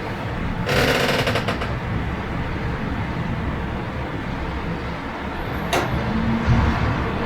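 Steady rain and city traffic ambience. About a second in comes a brief burst of rapid rattling clatter, and near six seconds a single sharp click.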